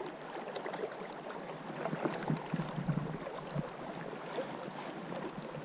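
River channel water flowing and babbling, with many small irregular gurgles.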